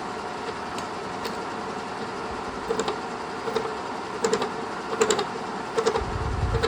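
Kearney & Trecker horizontal milling machine cutting a key slot into a valve ball under power feed. The machine runs with a steady hum, and short rattling bursts of cutter chatter come a few times a second from about two and a half seconds in.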